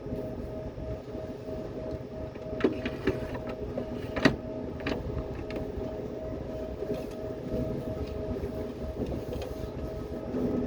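Train running: a steady low rumble with a constant hum, and a few sharp clicks or knocks a little before the middle.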